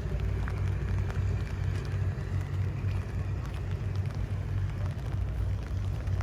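Rain ambience: scattered light raindrop ticks over a steady low rumble, like engine or traffic noise.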